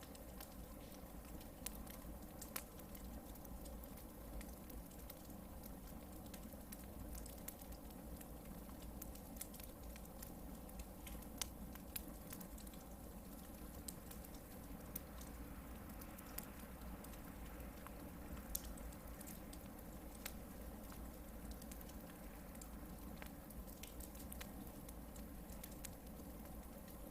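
Hardwood-log campfire burning, with scattered sharp crackles and pops over a faint steady hiss.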